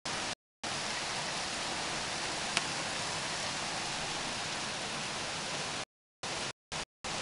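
Heavy rain pouring onto a street and pavement, a steady hiss, with one sharp tick about two and a half seconds in. The sound cuts out to dead silence in several brief gaps near the start and near the end.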